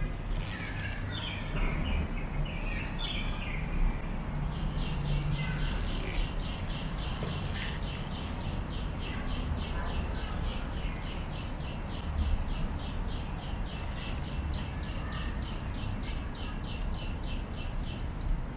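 Birds chirping. A few varied high chirps come first, then from about four seconds in a steady run of short, sharp, high notes, about three a second for over ten seconds. A low background rumble runs under it.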